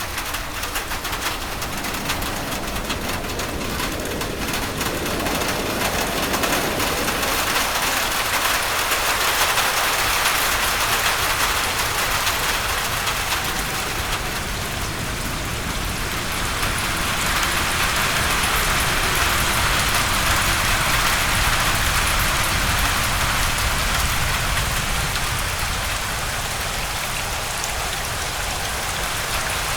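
Heavy rain falling as a steady hiss, swelling louder about eight seconds in and again past the middle before easing slightly.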